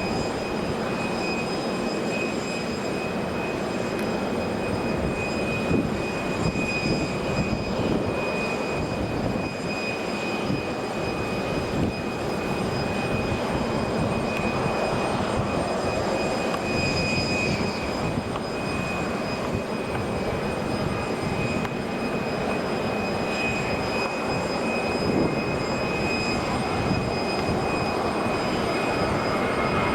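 Jet airliner engines running steadily at an airport: a continuous dense rumble with a steady high-pitched whine over it.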